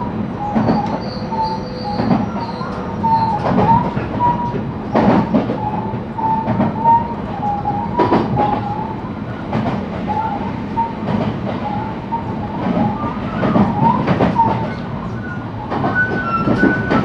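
JR West 223-series electric train running on the rails, heard from on board: a steady rumble with irregular knocks from the rail joints and a wavering wheel squeal.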